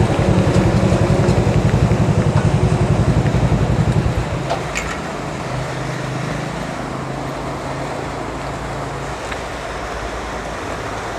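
Motorcycle riding on the road, engine and wind noise. A strong low throbbing for about four seconds, then it eases to a quieter, steadier drone.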